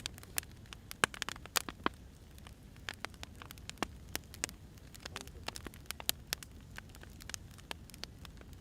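Firewood burning, with irregular sharp crackles and pops, several a second, over a low steady rumble of the fire.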